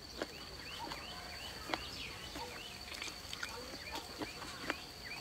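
Close-miked chewing of spicy braised chicken feet: a quick run of small wet squelching and clicking mouth sounds, several a second, over a faint steady high-pitched tone.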